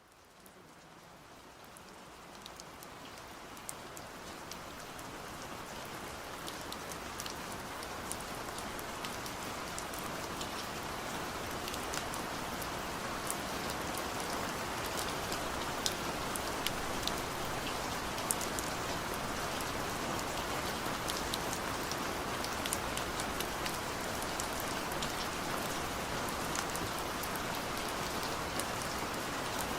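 Steady rain falling, fading in over roughly the first ten seconds and then holding even, with scattered sharp ticks of individual drops.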